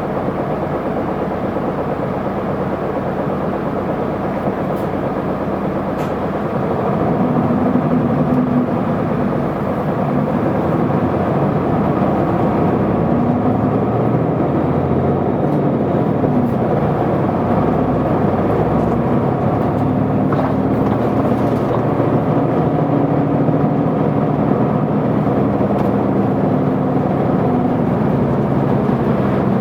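Isuzu Erga city bus's diesel engine and drivetrain heard from inside the cabin. It runs at low load at first, then gets louder about seven seconds in as the bus pulls away, the engine pitch rising and falling repeatedly through the gear changes.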